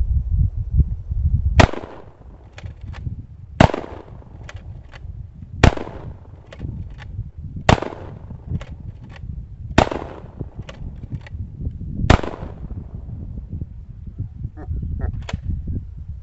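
Six gunshots fired about two seconds apart, each followed by a trailing echo and a few fainter cracks.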